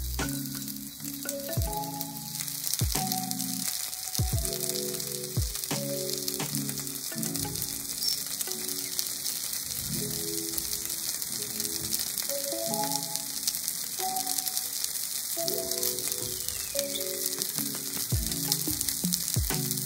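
Onigiri sizzling in a lightly oiled frying pan as they are brushed with soy sauce: a steady frying hiss. Background music with a stepping melody plays over it.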